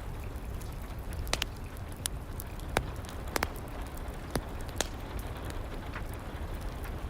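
Fireplace wood fire crackling, with sharp pops at irregular intervals, over steady rain.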